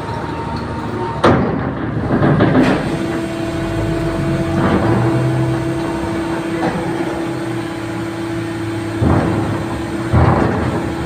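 Heavy vehicle engines running on a ferry's vehicle deck, a steady drone setting in about three seconds in. Four sharp knocks, two in the first few seconds and two near the end.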